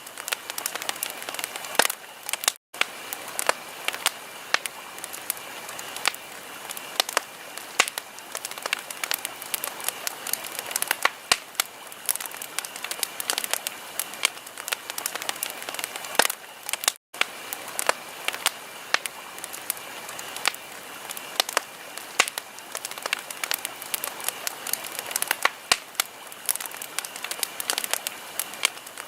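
Wood fire crackling: a steady hiss with many irregular sharp pops and snaps. It is broken twice by a split-second gap of silence, about three seconds in and just past halfway.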